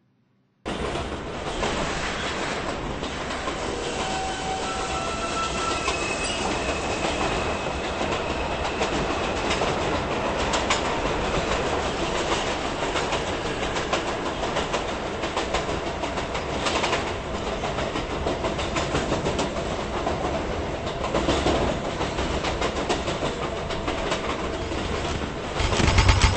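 New York City subway 6 train running on the track: a steady loud rumble and rush with the clickety-clack of wheels over rail joints. It starts abruptly about half a second in.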